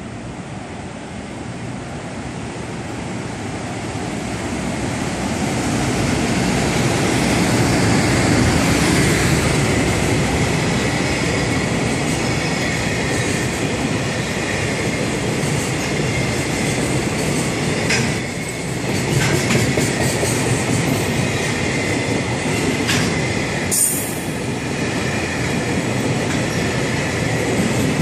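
Freight train passing, growing louder over the first several seconds and then a steady rumble of rolling wagons. Faint wheel squeal and occasional clicks come from the wheels on the rails.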